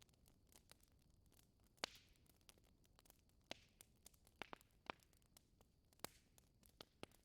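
Wood fire crackling in a fireplace: quiet, irregular snaps, with a handful of louder pops.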